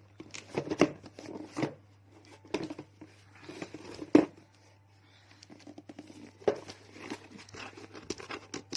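Irregular crinkling and tapping of things being handled, with a few sharper clicks, over a steady low hum.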